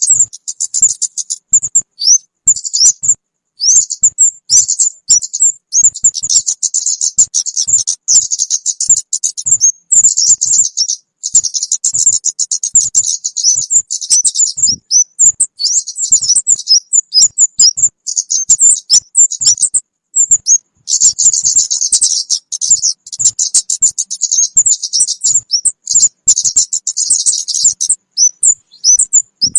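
Kemade bird lure recording: rapid high-pitched chirps and twittering in dense runs, broken by short gaps.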